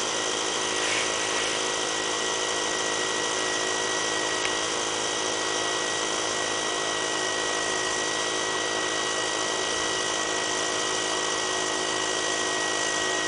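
Electric air pump running steadily, inflating a basketball: an even motor buzz with a steady whine.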